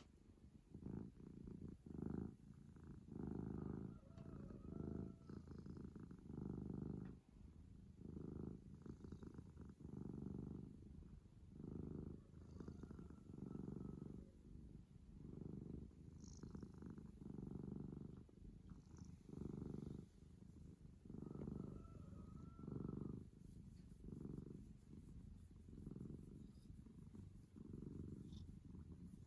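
Domestic cat purring, the purr swelling and fading in a steady rhythm with each breath, roughly one cycle every second and a half.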